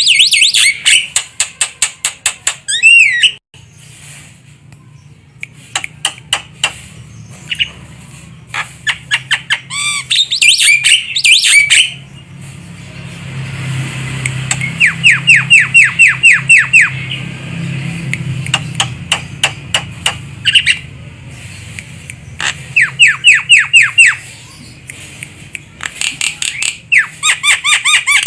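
Javan myna (jalak kebo) calling: runs of harsh squawks and quick clicking chatter, broken by bursts of about a second of rapid, falling whistled notes, repeated several times. A low steady hum runs underneath.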